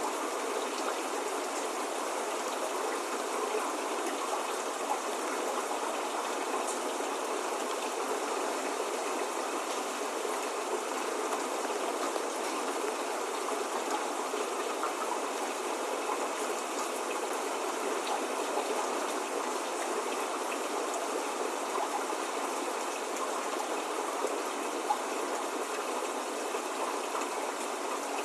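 Steady spring rain falling, an even hiss with faint drop ticks and no thunder.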